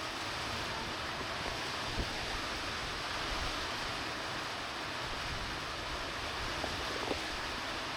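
Steady monsoon rain falling, an even hiss.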